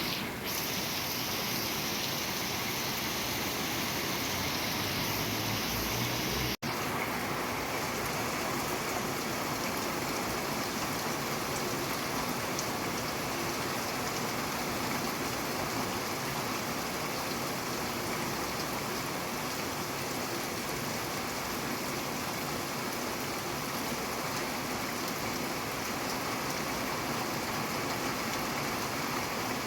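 Steady rain, an even hiss of falling water. About six and a half seconds in the sound cuts out for an instant and resumes slightly less bright, like a join between two recordings.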